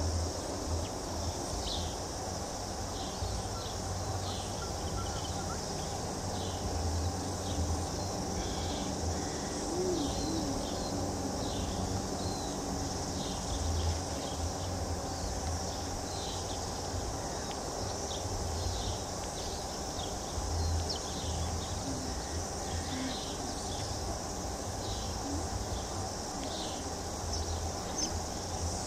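Birds chirping in short, high notes that come irregularly, over a steady high hiss and a low rumble.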